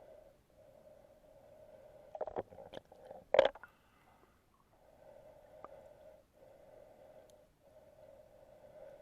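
Muffled underwater sound of a snorkeler breathing through the snorkel in long, regular breaths. A few sharp knocks and clicks come between about two and three and a half seconds in; the last one is the loudest.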